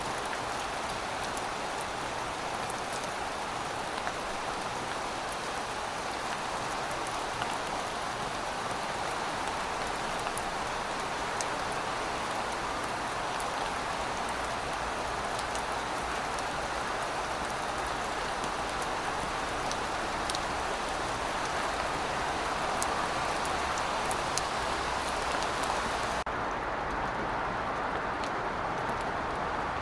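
Heavy rain falling steadily: a dense, even hiss with scattered sharp drop ticks. About 26 seconds in, the treble cuts off suddenly and the sound turns duller.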